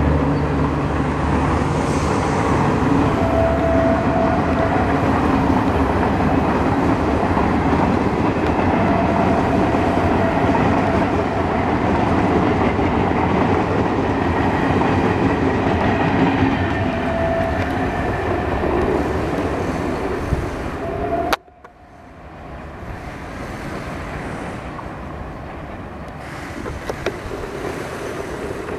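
Passenger coaches of an express train rushing past close by at speed: a loud, steady rumble and clatter of wheels on the rails, with a few brief high ringing tones. About three-quarters of the way through it cuts off abruptly, giving way to a quieter, more distant train sound that slowly grows louder.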